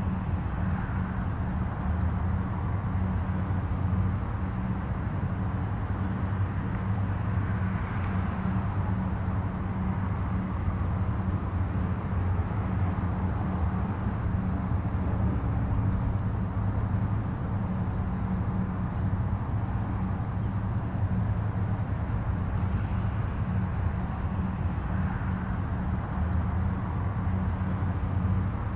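Distant highway traffic: a steady low rumble of tyres and engines, with passing vehicles swelling and fading every few seconds.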